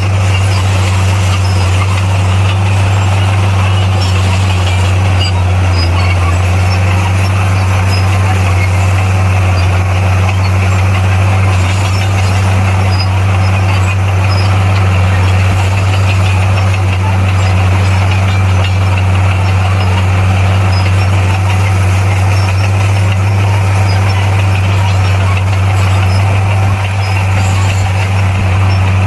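Bulldozer's diesel engine running steadily, a constant low drone with a slight dip near the end.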